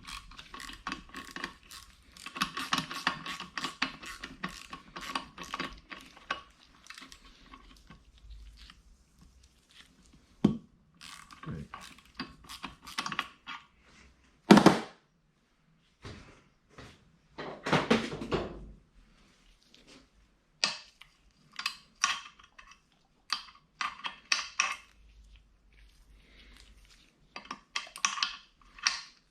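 Metal hand tools clicking, clinking and knocking against a Honda B18C aluminium cylinder head being stripped, with a run of rapid clicking at first and then separate knocks and clatters, the loudest about halfway through.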